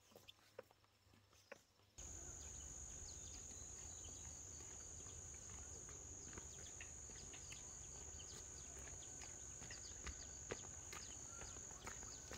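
Insects buzzing in a steady, high-pitched drone that starts abruptly about two seconds in, over a low rumble and scattered light clicks.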